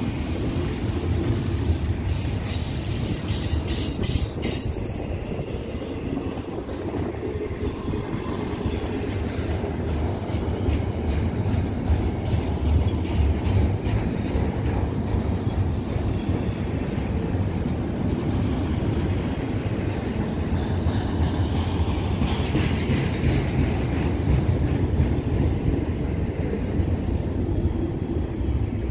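Freight train rolling past with a steady rumble of wheels on rail. A thin high wheel squeal sounds for the first five seconds or so, and the wheels click over the rail joints in the middle.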